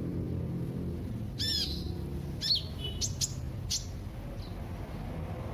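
Sunbird ('kolibri') calling: short, sharp high chirps about a second and a half in, again at two and a half seconds, then a quick pair and one more over the next second, with a steady low hum underneath.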